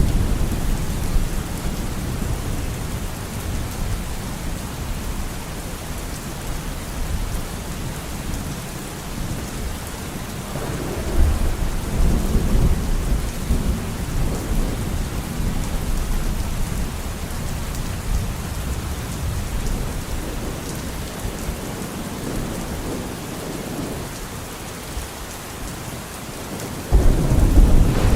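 Steady heavy rain with rolling thunder: low rumbles swell and fade, a longer rumble builds about eleven seconds in, and a sudden loud crack of thunder breaks near the end.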